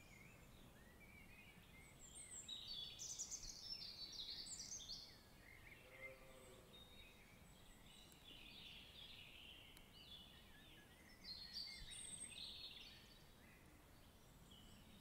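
Faint birdsong: small birds chirping and twittering in bursts over a low hiss, busiest from about two to five seconds in and again around eleven to thirteen seconds.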